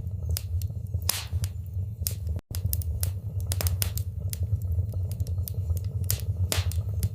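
Wood fire in a fireplace crackling: irregular sharp pops and snaps of the burning logs over a steady low rumble of the flames. There is a split-second gap in the sound about two and a half seconds in.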